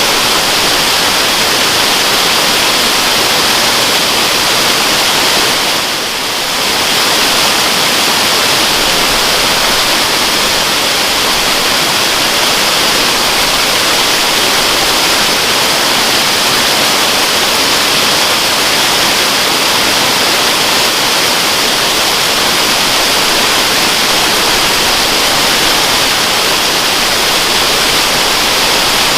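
Waterfall rushing in a steady, hissing roar of falling water, with a brief dip in level about six seconds in.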